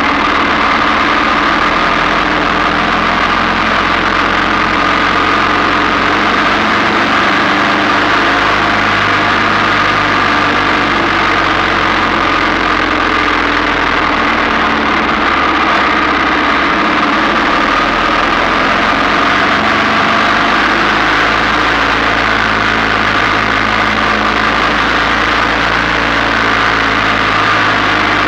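1947 Ariel VH500 Red Hunter's single-cylinder engine running steadily as the motorcycle rides along, mixed with a constant rush of wind noise.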